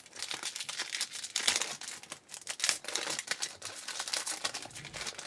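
Crinkling of a foil trading-card pack wrapper being handled and opened by hand: a dense, rapid crackle throughout.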